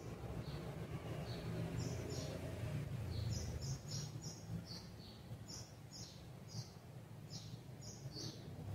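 A bird chirping, a string of short high chirps that comes quicker in the second half, over a low background hum.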